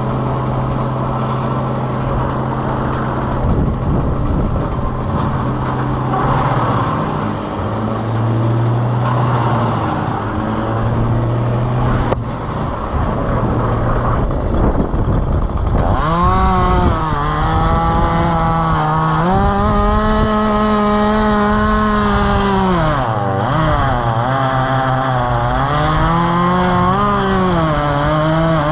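A steady engine hum for the first half, then about halfway in a chainsaw at full throttle cutting wood, its pitch dipping and recovering as the chain bogs in the cut.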